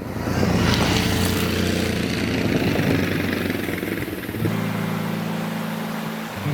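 Honda CRF300 Rally's single-cylinder engine running under throttle, with a rush of noise across the whole range. About four and a half seconds in it gives way to music with steady sustained chords that change once near the end.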